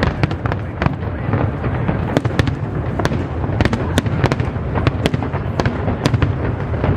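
Aerial fireworks display going off without pause: many sharp cracks and crackles a second over a steady low rumble of bursts.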